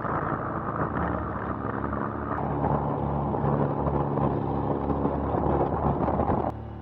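Cessna 182's single piston engine and propeller running steadily at taxi power, a constant drone with a strong low hum, cutting off abruptly near the end.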